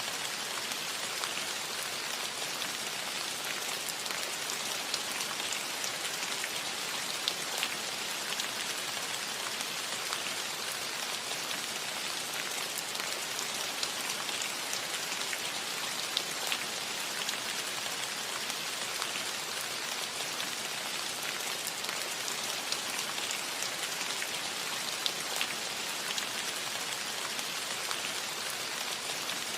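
Steady rain falling on a metal roof: a constant hiss with many small, sharp drop ticks scattered through it.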